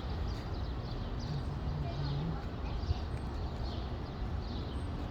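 Small birds chirping repeatedly over a steady low background noise, with a faint low voice heard briefly about a second and a half in.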